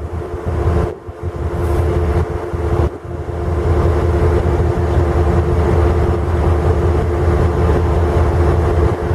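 Diesel engines of a GE 44-ton switcher locomotive running as it moves light along the track, a deep rumble with a steady droning tone. The sound grows louder about three seconds in and stays loud.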